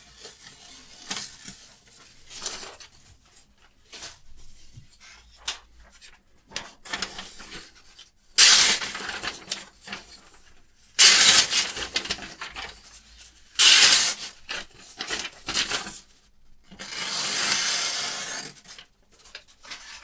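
Steel knife blade rubbing and scraping in irregular strokes, fainter at first, with four louder strokes of about a second each in the second half.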